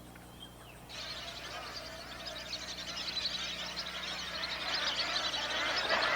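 A dense chorus of many birds chirping and calling at once, starting about a second in and growing steadily louder, with a faint low hum underneath.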